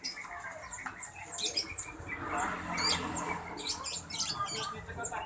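Many small caged birds chirping and squeaking at once, in quick high runs of short notes that overlap.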